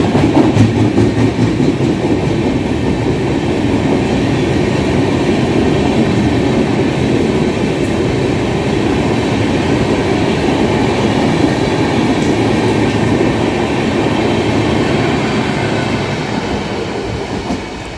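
Indian Railways express train of LHB coaches running past at speed, its wheels loud on the rails; the noise drops away near the end as the last coach goes by.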